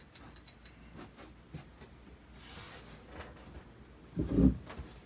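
1983 Hunter Reverse-Air Original ceiling fan running on high speed, with a faint steady low hum and light ticks. A loud low thump a little after four seconds is the loudest sound.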